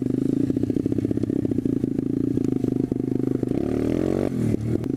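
SSR125TR pit bike's 125cc single-cylinder four-stroke engine running at a steady speed, then revving up and easing off from about three and a half seconds in as the bike is ridden.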